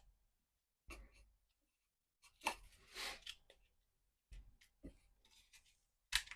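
Wooden beehive frame parts being handled and pressed together: a few light knocks and clicks of wood on wood with a short scrape about halfway through, the sharpest click near the end.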